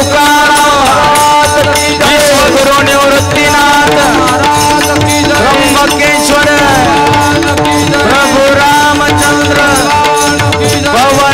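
Devotional kirtan singing with tabla and mridang accompaniment: voices gliding over steady held tones, with a continuous rhythm of drum strokes.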